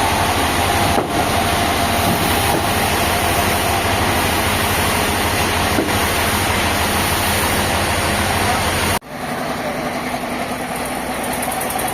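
A heavy engine or machine running steadily with a low rumble. About nine seconds in it cuts off abruptly and a similar, slightly quieter machine sound carries on.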